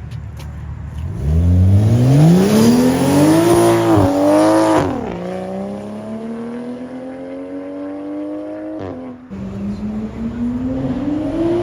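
Car engine accelerating hard through the gears, revs climbing and dropping at each upshift, with shifts about four, five and nine seconds in.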